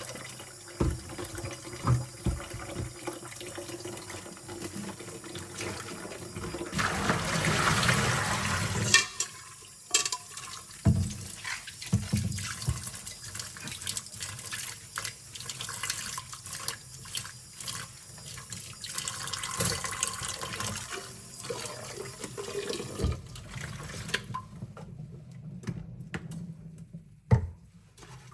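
Tap water running into a kitchen sink as metal cutlery and utensils are rinsed, with frequent clinks of forks and spoons against each other and the sink. The water gets louder for a couple of seconds about a third of the way in, and falls away near the end, followed by one loud clank.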